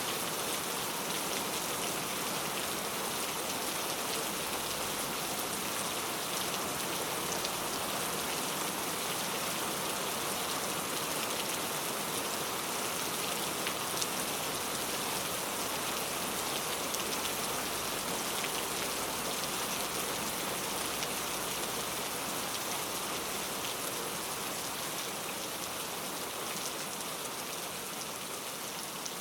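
Steady rain falling, a dense even hiss with scattered sharper drop ticks, easing a little in level over the last few seconds.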